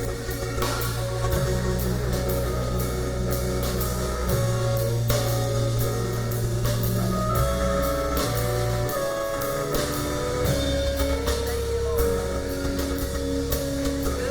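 Church praise band playing an instrumental passage with drum kit, bass, guitar and sustained keyboard chords, with regular drum hits and bass notes changing every second or two.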